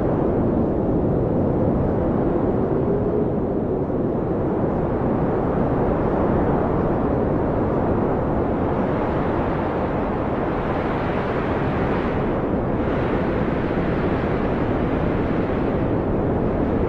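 Blizzard wind howling in a steady, heavy rush with a deep rumble, a faint whistle wavering up and down early on and a brighter hiss swelling for a few seconds about halfway through.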